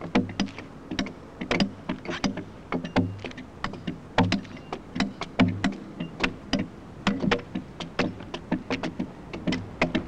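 Axe hewing a fresh oak log: sharp blows into the green wood in quick, irregular succession, several a second, many with a dull thud underneath, as the waste wood is chopped off its flank.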